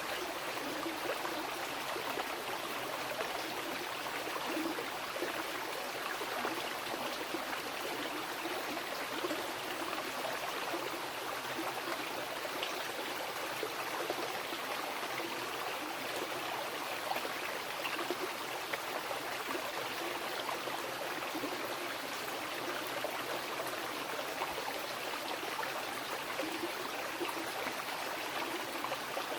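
A mountain river rushing and splashing steadily over rocks, an even water noise with small, constant burbles and no change.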